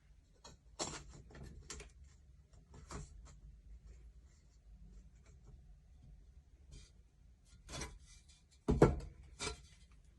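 Tools being handled at a silversmith's workbench: scattered light clicks and scratchy strokes, then two louder knocks near the end.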